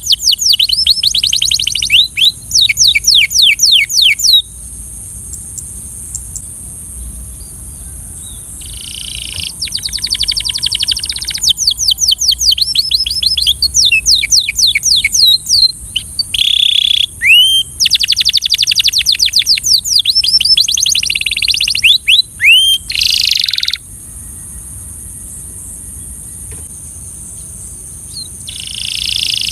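Belgian canary singing: fast trills of high, repeated downward-sweeping notes in phrases of several seconds, broken by two pauses of about four seconds.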